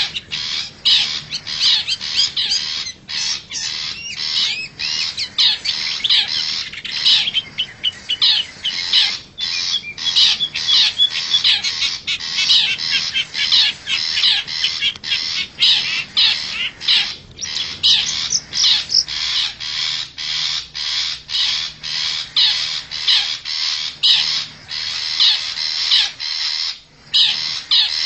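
Long-tailed shrike (cendet) calling: a dense run of short, rapid call notes with only brief breaks, a wild-shrike lure recording.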